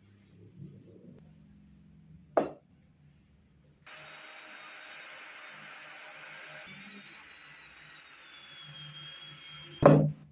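An electric power tool running steadily on wood for about six seconds, with a whining tone over a rough hiss, starting abruptly. Before it there is a sharp knock, and near the end a loud knock.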